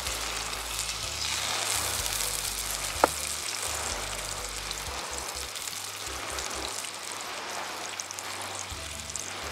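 Hamburger patty sizzling in a small cast-iron skillet over charcoal, just after being flipped; the sizzle is a steady hiss, a little louder in the first few seconds. A single sharp click about three seconds in.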